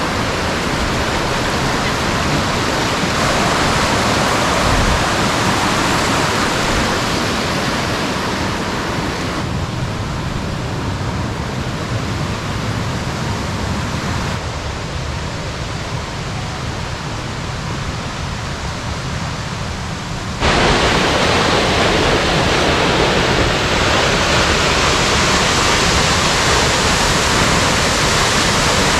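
Waterfall rushing: a loud, steady roar of falling water that jumps abruptly in level and tone several times, most sharply about two-thirds of the way through.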